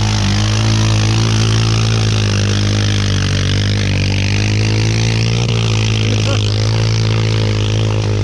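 ATV (quad) engine running steadily at a nearly constant speed, with a noisy hiss over it.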